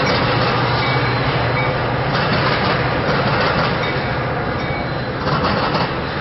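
A train running close by: a loud, steady rumble with a low hum under it, easing slightly near the end.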